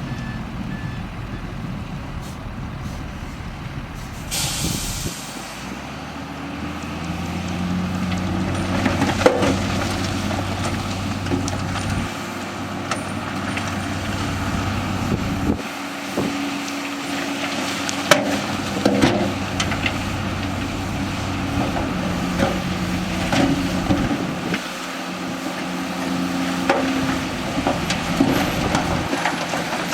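Heavy diesel dump truck and earthmoving machinery running, the engine note rising and falling as the machines work, with a short burst of air-brake hiss about four seconds in. A reversing beeper stops right at the start, and scattered clunks and knocks sound through the rest.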